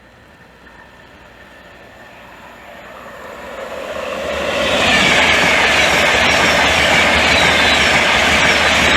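InterCity 225 express (Class 91 electric locomotive with Mark 4 coaches) passing through the station at speed without stopping. It grows louder as it approaches, then from about five seconds in becomes a loud, steady rush of wheels on rail and air.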